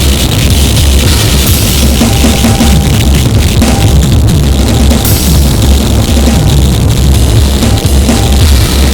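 Harsh noise music: a very loud, dense wall of distorted electronic noise over a pounding drum kit, the low end pulsing in an uneven rhythm.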